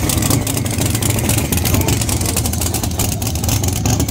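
Drag race car engines running loud at high revs, a dense, rapid-firing engine noise.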